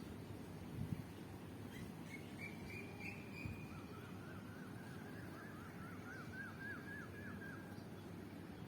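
A bird singing faintly: a short high trill, then a run of quick repeated chirps lasting several seconds, over a steady low background rumble.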